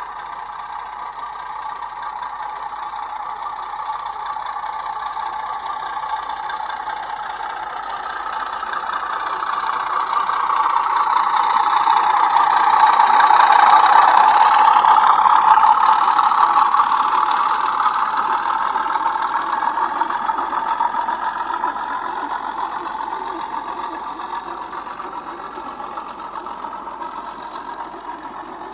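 00 gauge model train running past on the layout. It swells to its loudest about halfway through, then slowly fades away.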